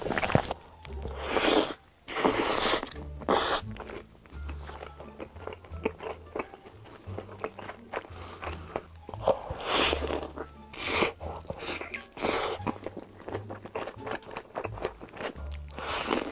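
Eating sounds: repeated crunching bites and chewing of fried chicken nuggets and a burger, over background music with a steady bass line.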